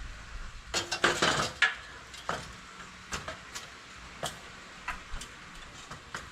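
Hard objects being handled: a quick clatter of knocks and clinks about a second in, then scattered single clicks.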